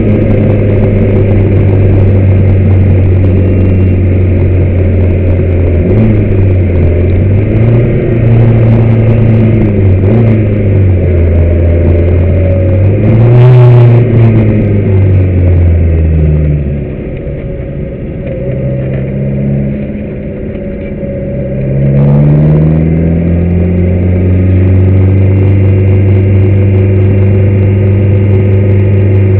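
Car engine recorded on board, running at fairly steady revs with several changes in pitch. About 13 seconds in there is a short sharp blip of revs. From about 16 seconds the revs fall and the sound drops away, then the engine climbs again and holds steady from about 23 seconds.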